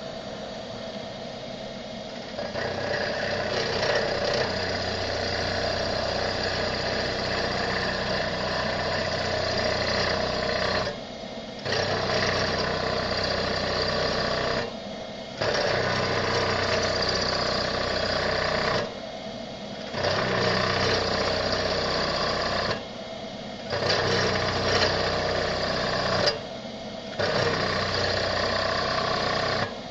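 Comet 3KVHD knee mill cutting into a wheel's center bore, a steady cutting noise that starts a couple of seconds in. It breaks off for about a second five times as the cut is paused and resumed. A quieter machine hum runs underneath throughout.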